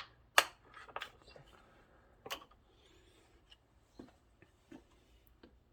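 Irregular sharp plastic clicks and taps over a faint hiss as a diesel hand priming pump is worked and a cut-open plastic bottle is handled, filling the bottle with diesel from the return line.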